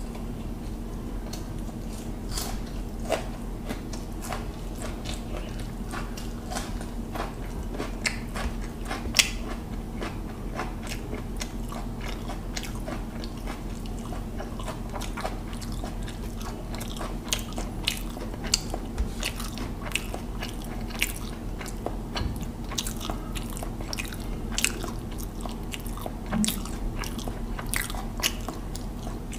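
Close-miked chewing of mouthfuls of hilsa fish biryani eaten by hand, with many irregular sharp wet mouth clicks, over a steady low hum.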